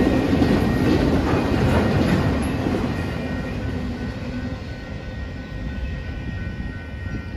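Freight train of autorack cars rolling over a grade crossing, wheels clacking. The rumble fades after about three seconds as the end of the train passes, while the crossing signal's bell keeps ringing.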